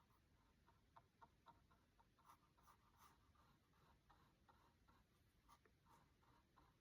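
Very faint paintbrush strokes on canvas: a brush laying on acrylic paint in a string of small soft scratches, several a second.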